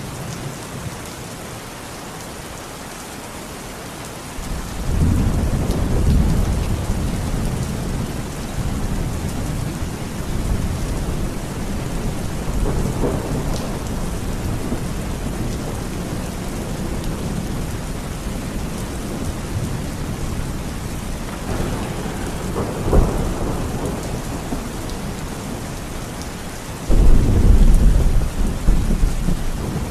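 Steady rain with thunder. A low rumble comes in about four seconds in and rolls on through the middle, and a sudden loud clap of thunder breaks near the end.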